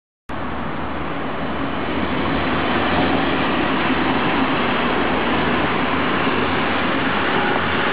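DB Class 628 diesel multiple unit passing: the diesel engines running under the noise of wheels on the rails. The sound starts abruptly just after the beginning and grows slightly louder.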